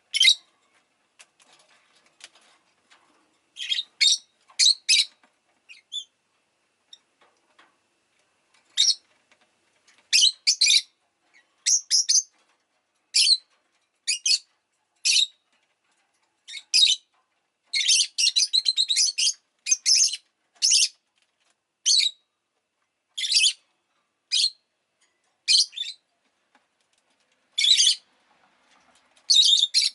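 Rosy-faced lovebird calling in short, shrill chirps, some single and some in quick runs, with quiet gaps between and a busier stretch of rapid chatter a little past the middle.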